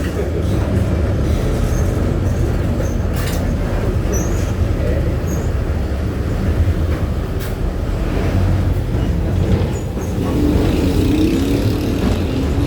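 Engine of a VW 17-230 OD bus chassis running under a Marcopolo Torino body, heard from inside the bus, with a steady low drone and occasional body rattles and knocks. Near the end the engine pitch climbs as the bus speeds up.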